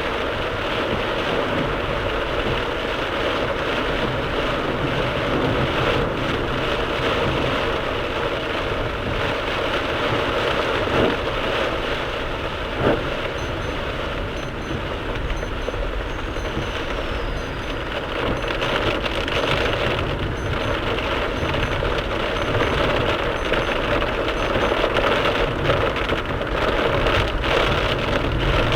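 Heavy downpour beating steadily on a moving car, heard from inside, mixed with tyre and road noise. Two short clicks come about halfway through.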